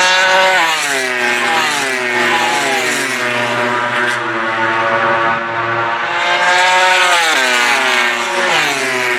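Racing motorcycle engines at high revs. The pitch drops in steps about half a second in and again about seven and a half seconds in, as the bikes change down under braking, and rises in between as they accelerate.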